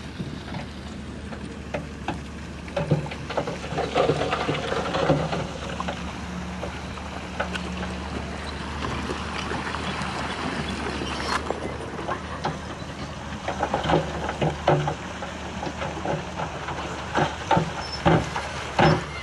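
Heavy earthmoving machine's diesel engine running steadily under load, with repeated clanks and knocks through the run, thickest around a few seconds in and again in the last few seconds.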